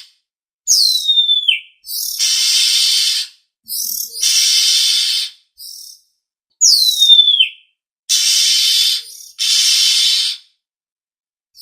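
Oriental magpie-robin (kacer) calling, loud and close: two clear whistles sliding steeply down in pitch, with four harsh, rasping calls of about a second each between them.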